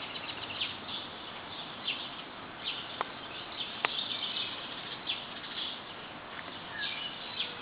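Small birds chirping in short, high notes again and again over a steady outdoor hiss, with two faint clicks about three and four seconds in.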